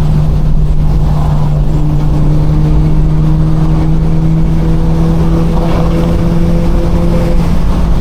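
Straight-piped BMW 428i's turbocharged 2.0-litre four-cylinder running at steady revs while cruising: a loud exhaust drone that holds one low pitch.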